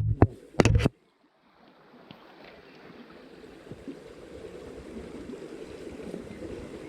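A few sharp knocks in the first second, then, after a brief gap, the steady rush of a small stream's flowing water, growing slowly louder.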